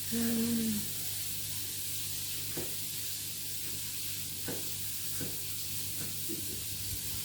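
Onions sizzling steadily in a frying pan, with a few light clicks of a utensil stirring them. A short hummed tone sounds in the first second, with a steady low hum underneath throughout.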